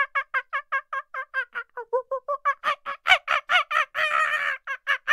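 A bird, most like poultry, calling in a fast run of short harsh notes, about five or six a second, with one longer drawn-out call about four seconds in.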